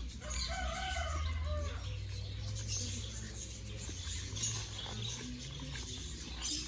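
A rooster crows once, starting about half a second in and lasting a little over a second, over a steady low rumble.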